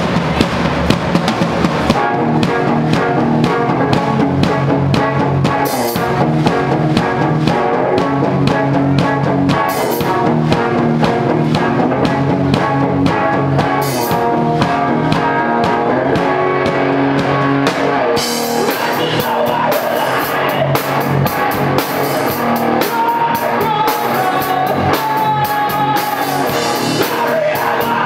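Rock band playing live: a drum kit driving steady beats under guitars. The cymbals come in much harder about two-thirds of the way through.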